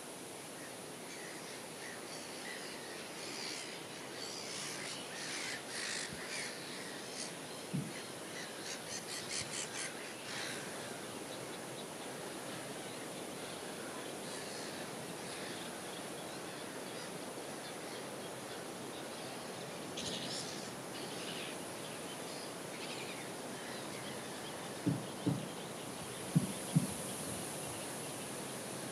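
Birds calling in two spells of short, harsh, repeated calls over a steady background hiss. Near the end come two pairs of short, low knocks.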